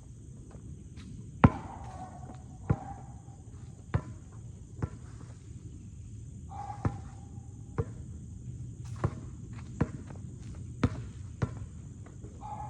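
Basketball bouncing on hard ground, about ten sharp bounces at uneven intervals of around a second, over a steady high-pitched drone of crickets or other insects.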